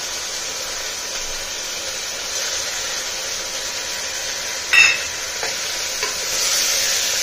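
Moong dal frying in hot ghee in a pressure cooker, a steady sizzle as a spatula stirs it, a little louder near the end. One sharp metal clink sounds a little before five seconds in.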